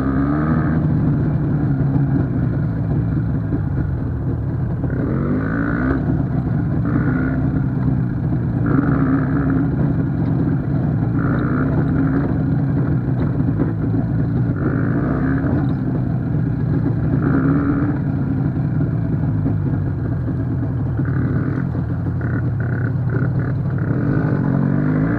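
Izh two-stroke motorcycle engine running steadily under way. Short higher-pitched sounds repeat over it every second or two.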